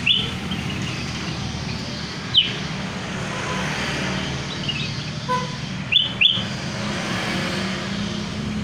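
Kutilang emas (ruby-throated bulbul) giving short, sharp chirps that drop quickly in pitch, spaced a second or more apart with a quick double near the end, as a lure call. A steady low rumble runs underneath.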